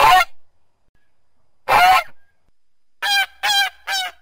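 Domestic geese honking: two single honks a little under two seconds apart, then a quick run of shorter honks, about three a second, from about three seconds in.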